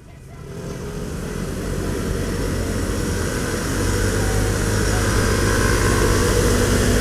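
Motorcycle riding, heard from a helmet-mounted camera: a steady low engine hum under wind and road noise, growing louder over the first couple of seconds and then holding steady.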